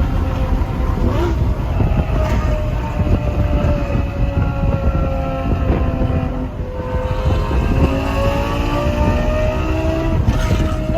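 Lamborghini Gallardo Superleggera's 5.0 V10 through its aftermarket exhaust, heard from inside the cabin while driving through a tunnel. The engine holds a steady note over a heavy rumble, drifting slightly lower and then back up as the speed eases and picks up again.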